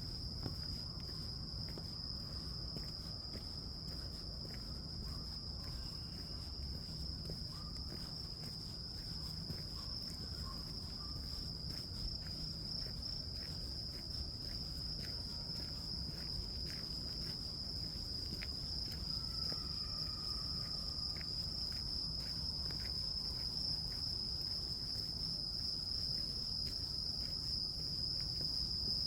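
Grass insects (crickets) singing in one continuous high-pitched trill, slightly louder near the end, over a low background rumble.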